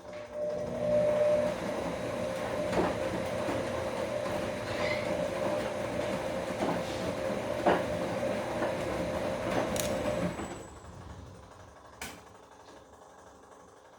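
Bosch Komfort-Klasse washing machine turning its drum in the wash cycle: a steady motor whine with irregular knocks from the tumbling load. It starts just after the beginning and stops about ten and a half seconds in, and a single click follows near twelve seconds.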